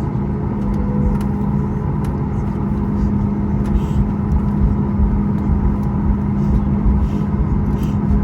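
Boeing 737 MAX 8 cabin noise: the CFM LEAP-1B jet engines running with a steady drone and a low rumble, heard from inside the cabin.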